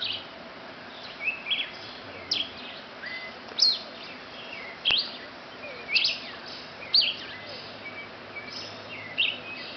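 Small bird chirping: a string of short, sharp, mostly down-slurred chirps, roughly one a second, over a faint steady hiss, with a single sharp click about halfway through.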